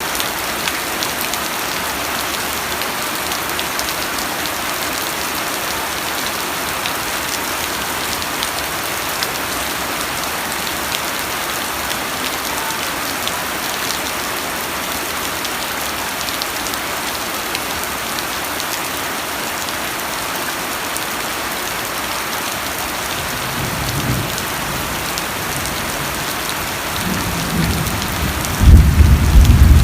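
Steady rain falling in an even hiss, with thunder rumbling low about three-quarters of the way through and a louder roll of thunder just before the end.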